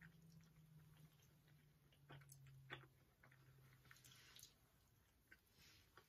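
Faint, close chewing of cookies, with scattered small wet mouth clicks and smacks. A low steady hum underneath stops about two-thirds of the way through.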